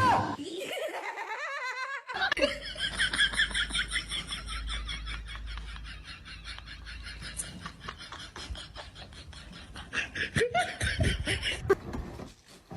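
A person laughing hard: a long run of rapid, repeated laughter that starts about two seconds in and eases off near the end.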